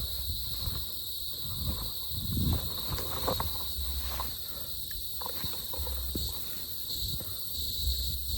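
A steady, high-pitched insect chorus runs throughout, with irregular footsteps and rustling from someone walking a forest trail.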